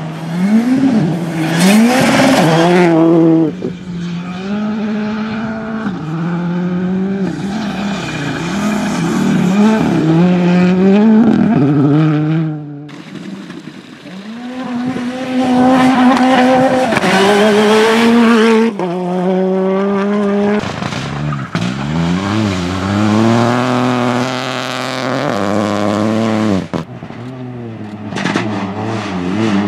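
Rally cars at full throttle on a stage, engines revving up through the gears with sharp drops in pitch at each shift and as they lift off, one car after another with abrupt changes between passes.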